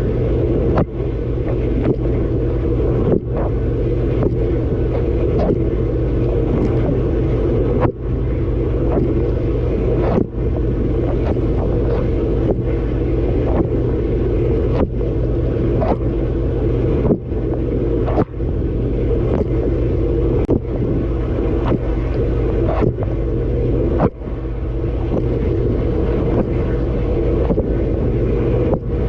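Dishwasher mid-cycle heard from inside the tub: the pump running and water spraying against the dishes and the camera, a steady, heavy wash that briefly drops away now and then.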